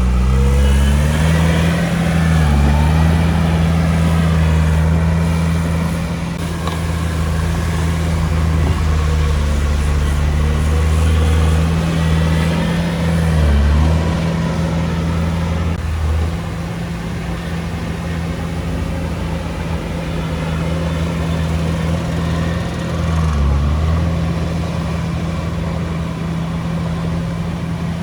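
Komatsu D31P bulldozer's diesel engine running steadily while working, its pitch dipping briefly about three times as it takes load.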